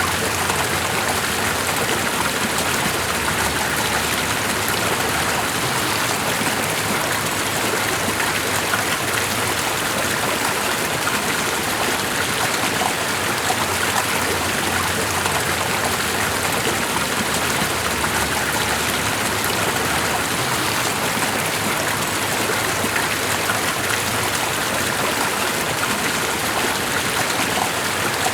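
Steady running water of a stream, an even rush with fine splashing and no change in level.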